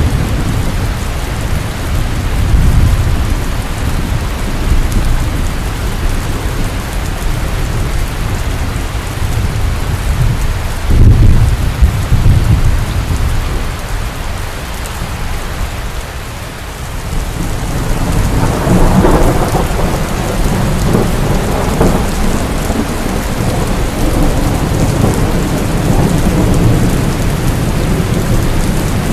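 Heavy rain falling steadily with rolling thunder: a loud clap of thunder about a third of the way in, and a long rumble swelling and dying away past the middle.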